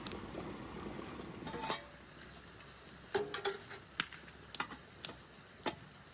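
A few light clinks and knocks of tea things being handled, one of them ringing briefly a little past three seconds in, over a faint low hiss at the start.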